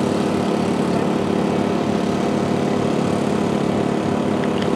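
Engine on a gold-prospecting machine running steadily at constant speed.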